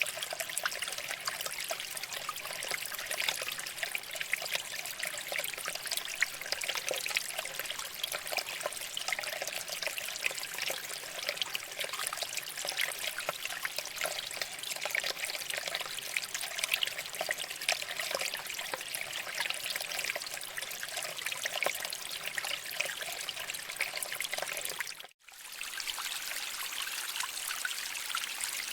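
Shallow stream water flowing and trickling over rocks, a steady babbling splash. About 25 seconds in it cuts out for a moment at an edit, then resumes with less of the low gurgling.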